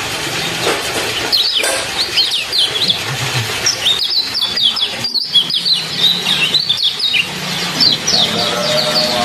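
A small songbird giving rapid, repeated 'ciak ciak' chirps in quick runs, over the steady sound of trickling water.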